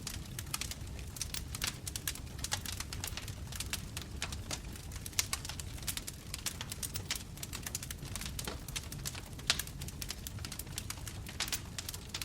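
Bonfire crackling: dense, irregular pops and snaps over a low, steady rumble of flames, with one sharper pop late on.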